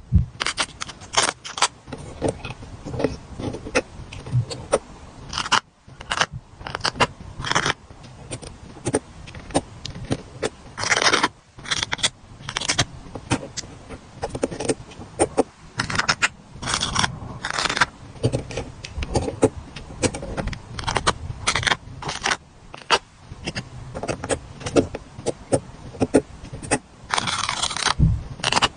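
Paper stickers being peeled off their backing sheets and pressed down: a busy run of crackly peeling, scraping and tapping, with a few longer scraping strokes about 11 seconds in and near the end.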